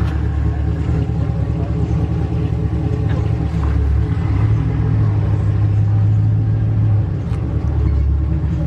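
Cammed 6.0-litre V8 of a lifted Chevy Silverado, with new headers, running with a deep, steady exhaust rumble. Its pitch rises slightly about halfway through and settles back near the end.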